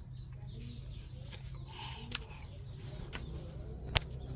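Faint bird calls over a steady low hum, broken by scattered clicks and one sharp click just before the end.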